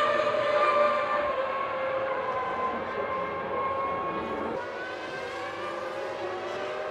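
Formula One race car engines running at high revs, a steady high-pitched whine that drifts in pitch, with one rising sweep about four seconds in, fading slightly.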